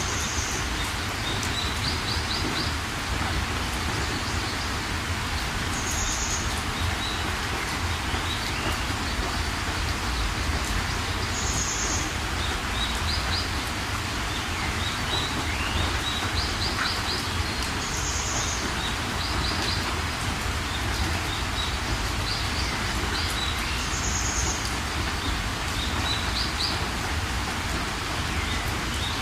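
Steady rain hiss with small birds chirping over it. A short high call comes about every six seconds, with quick runs of chirps in between.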